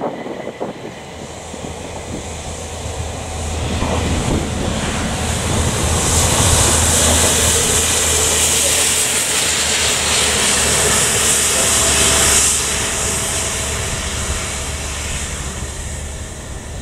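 Railhead treatment train (a pair of Windhoff multi-purpose vehicles) passing at speed: a diesel engine drone under a loud hiss from its high-pressure water jets cleaning leaf mulch off the rails. The hiss swells as the train comes close, cuts down sharply about twelve seconds in as it goes by, then fades as the train recedes.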